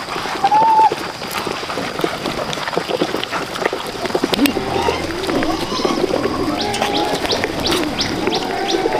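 Birds calling: a short, low, coo-like call about half a second in, then from the middle on a mix of wavering lower calls and a quick run of short, high chirps, over a steady high hum.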